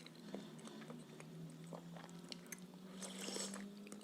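Close-miked chewing of a filled blin pancake, soft wet mouth clicks, with a short hiss about three seconds in. A steady low hum sits underneath.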